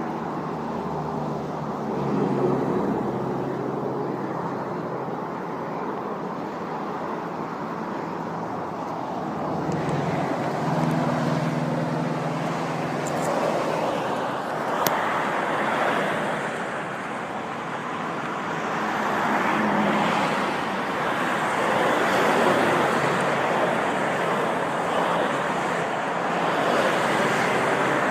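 Road traffic going by: a continuous rush of tyre and engine noise that swells and fades as vehicles pass one after another, with a low engine hum from a passing vehicle in places.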